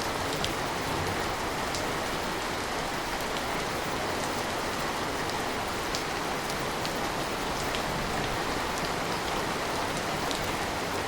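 Steady rain falling, a dense even hiss with occasional sharper drops ticking against a surface.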